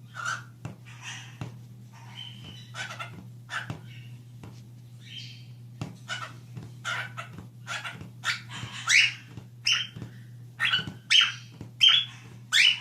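A pet animal giving a series of short, sharp calls, about one or two a second, growing louder toward the end, over a steady low hum.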